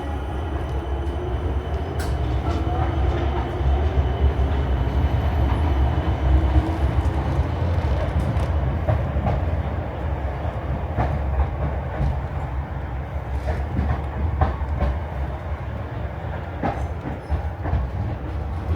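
Class 455 electric multiple unit running, with a steady low rumble and a faint motor whine rising in pitch over the first several seconds as it gathers speed. Wheels click over rail joints at intervals.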